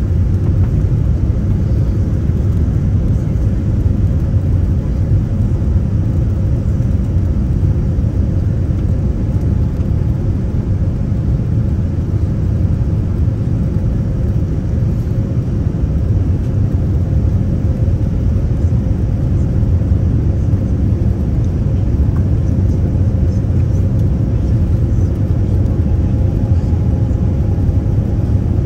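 Airliner cabin noise on the way in to land: the jet engines and rushing air make a loud, steady low rumble that does not change.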